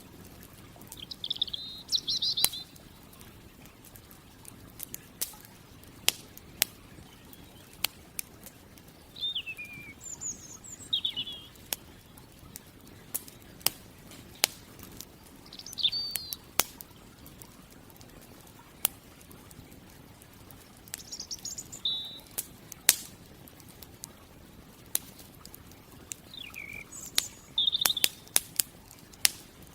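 Campfire crackling, with sharp pops scattered all through, while a bird sings short phrases of chirps every few seconds.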